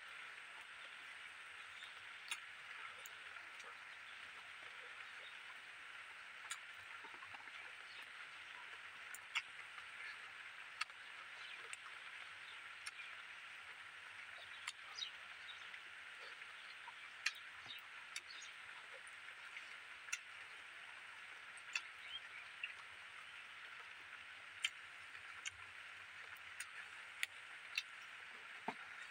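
Faint close-up eating sounds: irregular sharp mouth clicks and smacks, one every second or two, as a mouthful of rice and fish curry is chewed, over a steady high outdoor hiss.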